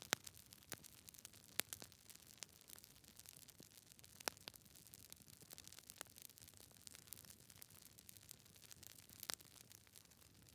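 Wood fire crackling in a fireplace: burning logs give irregular sharp pops and snaps over a faint hiss, with a few louder pops among the many small ones.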